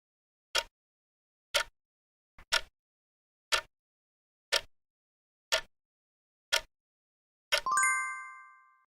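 Countdown-timer sound effect: a clock ticking about once a second, then, near the end, a bright multi-tone chime that rings and fades as the answer time runs out.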